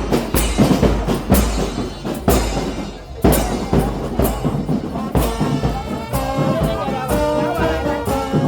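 A brass band playing with drums: heavy drum strokes first, then a brass melody of held notes comes in about five seconds in.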